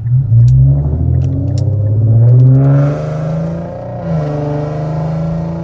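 Infiniti Q50 3.7's V6 accelerating hard through a catless test-pipe and Y-pipe exhaust, heard from inside the car. The revs climb steeply for about two and a half seconds, then hold high with a brief dip about four seconds in. It is so loud.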